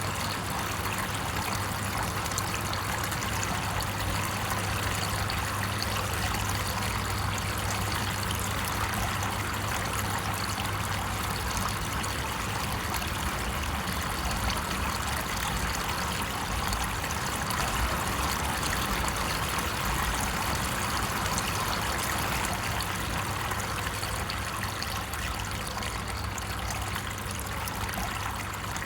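Steady trickling running water, like a stream, continuing without a break.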